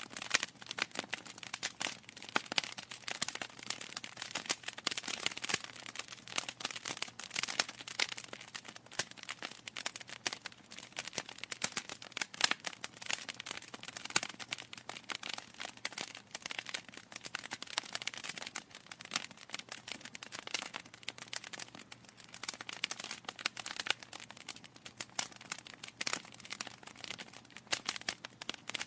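Wood fire crackling in a fireplace: a dense, irregular stream of small snaps and pops, with now and then a louder pop.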